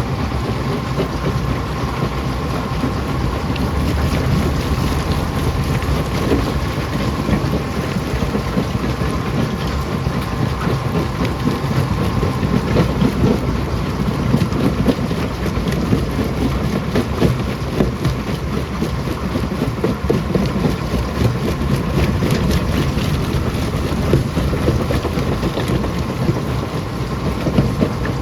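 Rock crusher running with rocks being crushed: a steady, loud rumble full of small knocks and cracks, over a faint steady machine hum.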